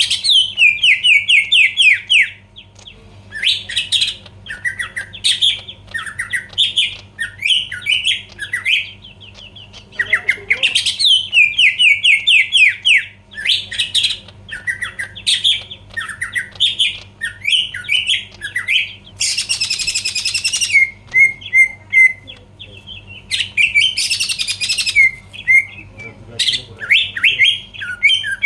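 Green leafbird (cucak ijo) singing hard: fast, unbroken runs of chattering, sliding whistled notes, with two short harsh, raspy bursts about two-thirds and four-fifths of the way through. A faint steady low hum lies underneath.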